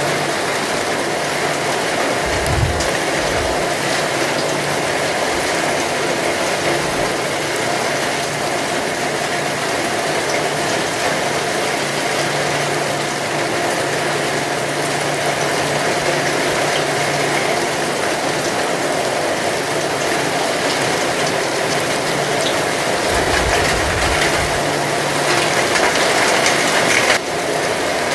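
Heavy rain falling steadily, a dense patter of drops, with brief low rumbles about three seconds in and again near the end.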